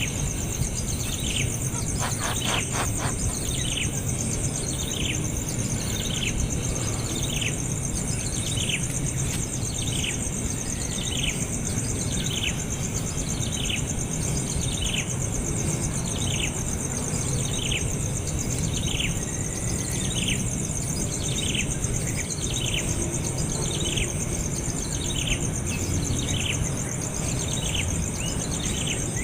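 Baby bird giving a short falling chirp over and over, a little more than once a second, against a steady high drone of insects.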